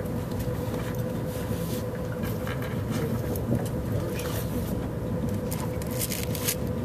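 Cabin noise of a Sapsan high-speed train under way: a steady low rumble with a constant tone held through it, and a few light clicks.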